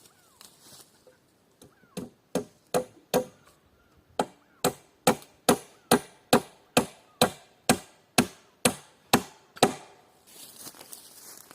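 Quick, even blows of a tool striking wood, each ringing briefly: a run of four, a short pause, then about a dozen more at two to three a second. A faint rustle follows near the end.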